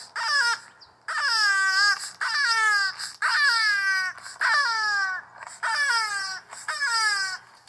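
A toucan-like bird calling: about seven short, wailing cries in quick succession, each one falling in pitch.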